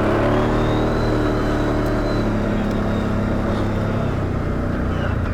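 ATV engine running at a steady, nearly constant speed while the machine rides along a dirt trail.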